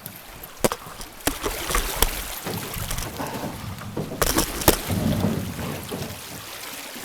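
Aluminium or fibreglass canoe on a shallow, rocky creek: water sloshing around the hull with several sharp knocks against the canoe, loudest about four and a half seconds in.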